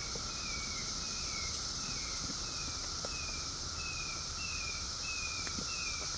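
Chorus of periodical cicadas: a steady drone, with short falling notes repeating about three times a second over it.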